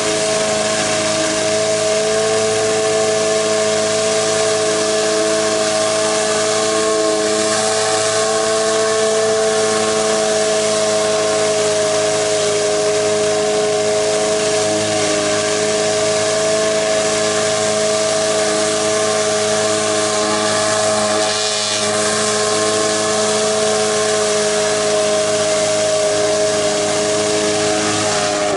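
Gas-engine pressure washer running steadily under load with a constant whine, water jetting from the wand with a hiss.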